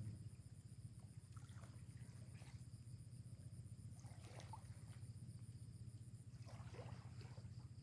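Near silence: a faint steady low hum, with a faint high, evenly pulsed chirping that stops about six seconds in.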